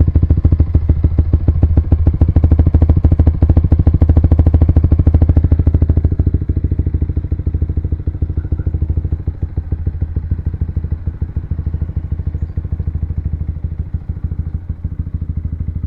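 Yamaha R15 VVA's single-cylinder engine running through an aftermarket R9 exhaust, a fast, steady pulsing note, louder and fuller for the first six seconds, then dropping to a lower, quieter run.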